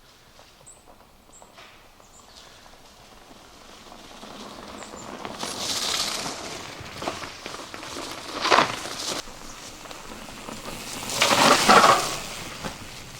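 Bikes going past on a muddy trail, their tyres churning through the mud. The noise swells up twice, with a sharp crunch about eight and a half seconds in and the loudest pass around eleven to twelve seconds.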